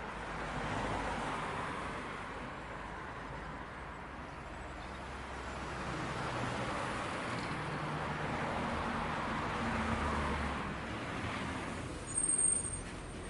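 City bus approaching and slowing to pull up at the stop, its engine and road noise swelling and easing, with a brief high-pitched brake squeal near the end as it stops.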